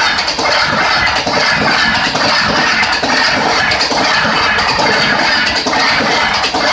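Express passenger train passing at full speed: a loud, steady rush of wheel-on-rail noise and wind, with repeated clacks as the wheels run over the rail joints.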